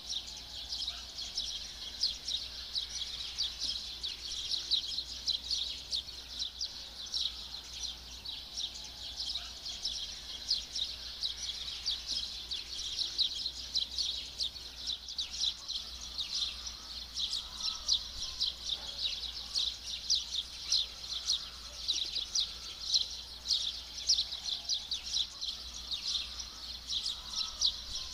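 Many small birds chirping continuously in a dense, high-pitched chorus, with a faint low hum underneath.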